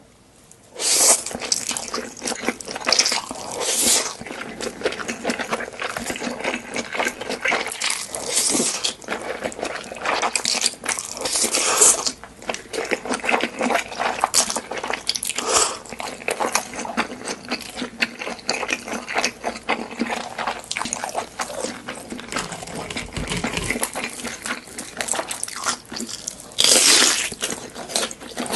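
Close-miked eating of curry noodles with cheese: wet chewing and mouth smacks throughout, broken by several louder slurps of noodles.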